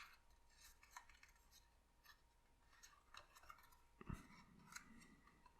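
Faint, scattered crinkles and small clicks of thin printed card being folded and creased by hand.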